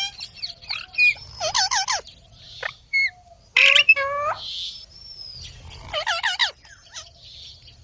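Indian ringneck parakeet calling: a series of short squawks and chirps that bend up and down in pitch, spaced out by brief pauses, with a few harsher, hissy bursts mixed in.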